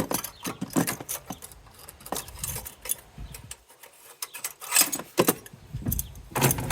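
Irregular metallic clinks, clanks and rattles of hand tools and loose exhaust hardware being worked under a truck, loudest in clusters about five seconds in and near the end.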